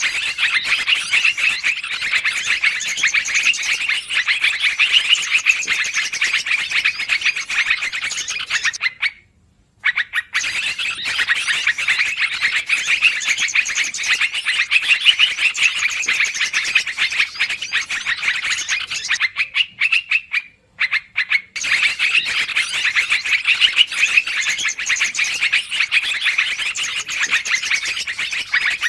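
Yellow-vented bulbuls (trucukan) calling in a noisy, dense chorus of rapid chirps. The chorus drops out briefly twice, about nine and twenty seconds in.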